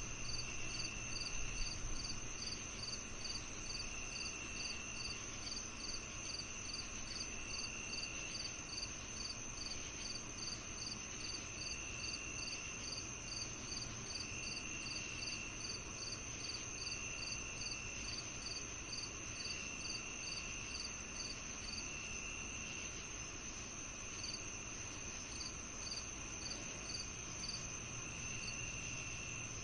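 Chorus of crickets and other insects: a steady high trill, a regular chirp about two or three times a second, and a lower trill that comes in bursts of a second or so every two to three seconds, over a faint low hum.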